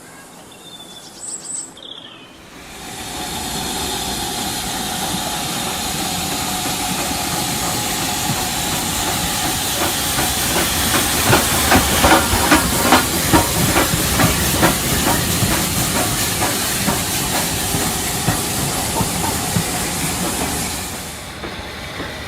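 Steam locomotive sound: a steady hiss of steam that comes in about two and a half seconds in and drops away near the end, with a run of rapid clicks through the middle.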